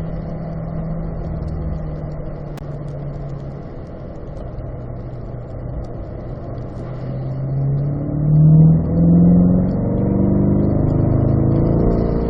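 Corvette V8 engine heard from on board at speed: a steady engine note that eases slightly, then from about seven seconds in the revs climb as the car accelerates up the straight. It is loudest around eight to nine seconds in.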